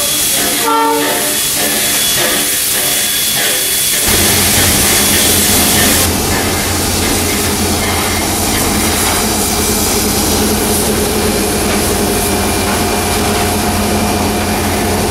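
Steam hissing loudly from a steam locomotive, fading out about six seconds in. About four seconds in, a heavy diesel locomotive engine cuts in with a steady low running hum that carries on to the end.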